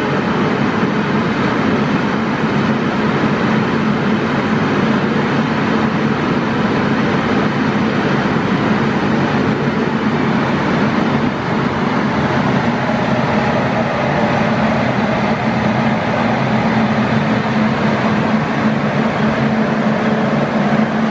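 Steady running noise of a moving train: an even, dense rumble with a steady low hum underneath, holding the same level throughout.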